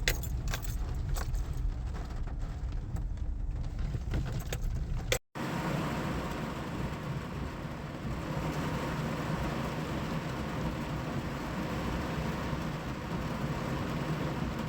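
Rain striking a car's roof and windshield, heard from inside the car. For the first few seconds the drops land as scattered sharp taps over a low rumble. After a brief break, the rain comes down as a dense, steady patter.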